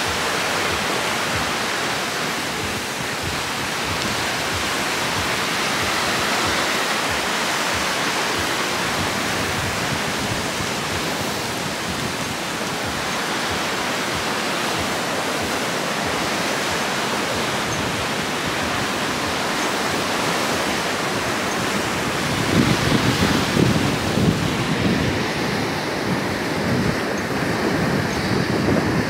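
Steady rushing of wind-driven surf breaking on a beach, mixed with wind. From about two-thirds of the way in, gusts buffet the microphone in low, irregular rumbles.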